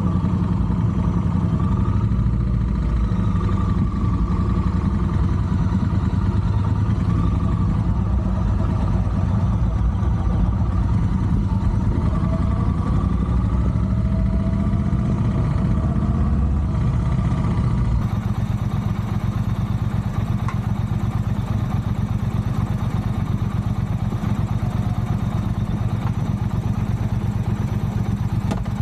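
Triumph Bonneville Bobber's 1200 cc parallel-twin engine running steadily under way, a dense, even engine note heard from on the bike.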